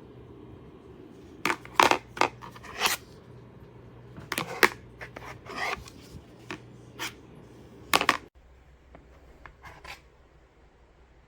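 Irregular clatter of hard plastic dinner plates being handled: a run of sharp clacks and knocks with a few brief scrapes, stopping abruptly about eight seconds in.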